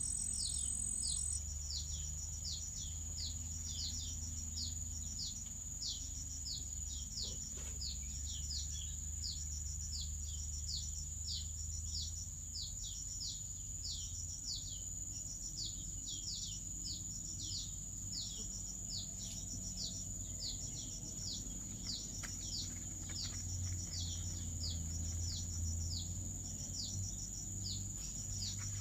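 A bird calling in a steady, regular series of short, high chirps that sweep downward, over a continuous high-pitched tone and a low rumble.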